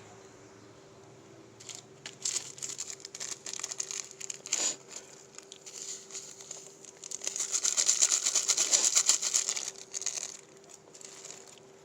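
Plastic packaging crinkling and tearing as it is handled and opened, in irregular bursts that are densest and loudest about two-thirds of the way in. A faint steady hum runs underneath.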